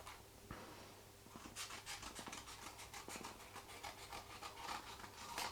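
Scissors snipping through folded card as three feathers are cut out at once: faint, irregular short cuts and paper rustle, several a second, starting about a second and a half in.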